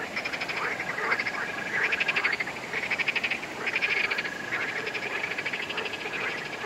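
A chorus of frogs calling: overlapping runs of rapid pulsed croaks, over a steady high trill that carries on throughout.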